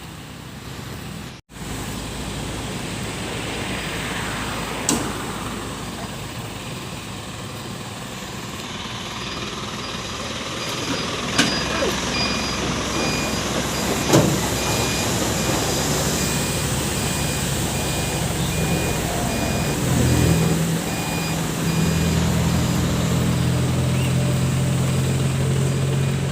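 Recovery tow truck running, with an electronic reversing-alarm beeper beeping at a steady even rate from about a third of the way in until near the end. The engine hum gets heavier past the middle, and a few sharp knocks sound along the way.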